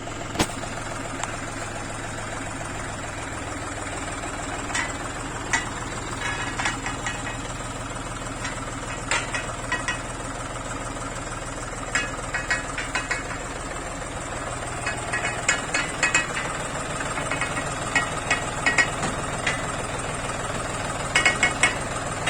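John Deere tractor's diesel engine running steadily, with clusters of sharp clicks and rattles coming and going every second or two.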